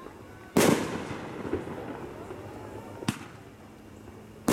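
Aerial fireworks shells bursting: a loud bang about half a second in that rumbles away slowly, a few faint pops, then a sharper, quieter bang about three seconds in, and another loud bang right at the end.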